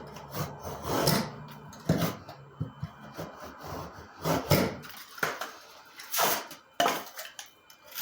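A small scrap of drywall (sheetrock) being cut with a knife and handled: irregular scrapes and sharp knocks, under a low steady hum that stops about five seconds in.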